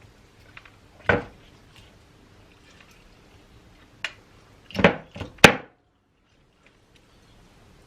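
Eating sounds at the table: a sharp click about a second in, then a quick run of four clicks and knocks a little after four seconds in.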